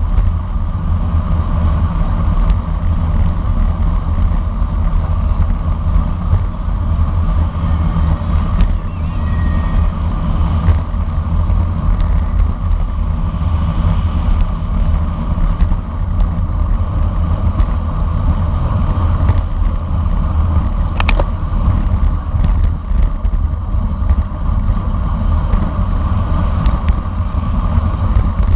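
Steady wind rushing over the microphone of a camera riding with a racing bicycle, mixed with tyre and road noise, with scattered light clicks and one sharper click about three quarters of the way through.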